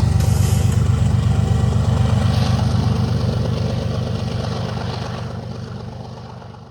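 Diesel locomotive engine running with a steady low throb, fading away near the end.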